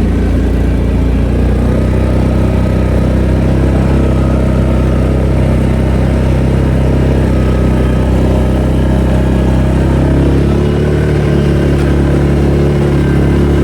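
Engine of a snow-plowing vehicle running steadily, with a slight shift in pitch about ten seconds in.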